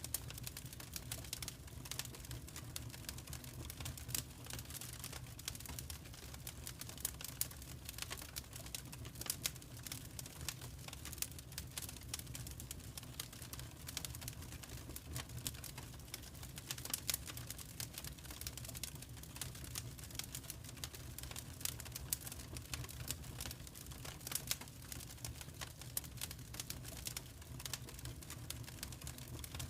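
Fireplace fire crackling, with irregular snaps and pops over a steady low rumble.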